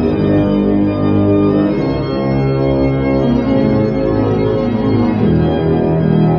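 Background music: slow, sustained organ chords shifting from one to the next.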